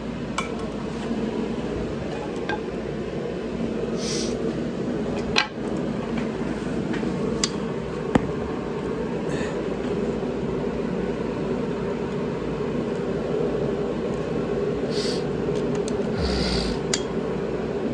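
Hand tools and engine parts clinking and tapping as an engine is being taken apart, with a few sharp metallic clicks (the loudest about five and eight seconds in) and short scraping bursts, over a steady hum.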